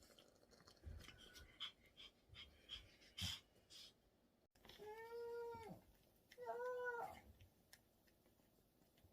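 Pomeranian dog giving two drawn-out whines, each rising and then falling in pitch, after a few light clicks and taps.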